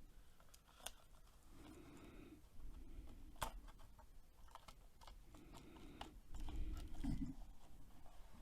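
Faint, scattered small clicks and handling noises, the sharpest about three and a half seconds in, over a faint low rumble.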